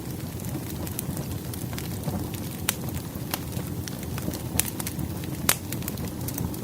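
Crackling wood fire: a steady low rumble of burning logs with irregular sharp pops and snaps, the loudest about five and a half seconds in.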